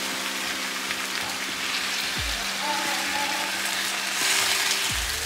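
Corn tortillas sizzling in hot oil and birria consommé in a frying pan, a steady frying hiss. Background music with held chords and a falling bass sweep twice plays over it.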